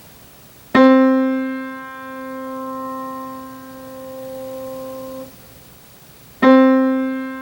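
A single piano note struck with a sharp attack, left to ring and fade, then cut off abruptly by the damper: the decay and damping of a piano tone. The same note is struck again near the end and is still sounding.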